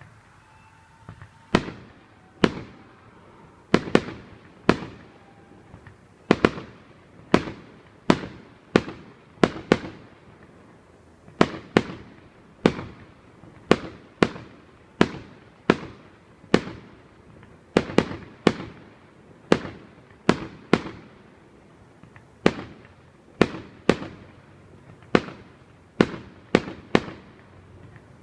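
Fireworks going off in a long, irregular series of sharp bangs, about one or two a second, each trailing off in a short echo.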